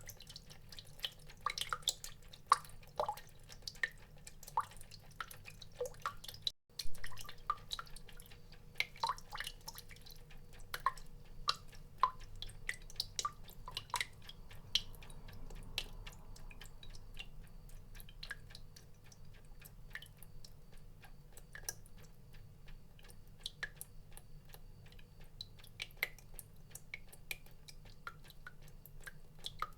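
Water drops dripping irregularly, several short plips a second, some with a brief pitched ring, over a faint low hum. About six and a half seconds in, the sound cuts out for a moment and comes back with a louder drop.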